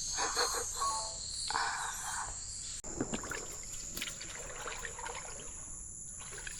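Rainforest insects holding a steady high-pitched drone, with water trickling and dripping close by. There is a sudden change in the background partway through.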